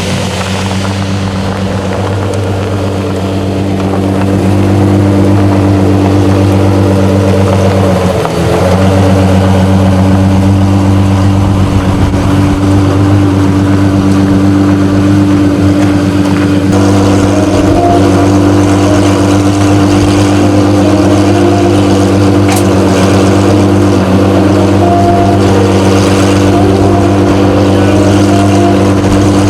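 A car engine idling at a steady, unchanging pitch, getting louder about four seconds in.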